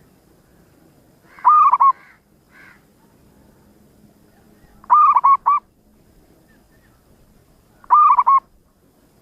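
Zebra dove (perkutut) singing: three short phrases of quick cooing notes, about three seconds apart.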